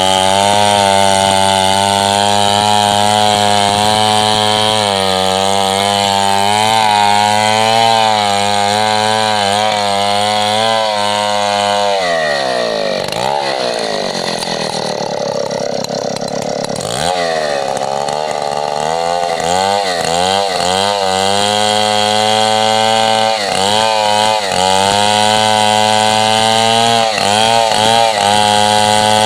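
Stihl 070 / MS 720 two-stroke chainsaw running at high revs while cutting coconut palm lumber into boards, its pitch wavering under load. About twelve seconds in the engine drops steeply to low revs, then is blipped back up several times and returns to full-throttle cutting.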